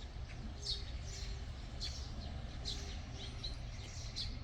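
Birds chirping in short high calls, roughly one a second, over a steady low hum of park background noise.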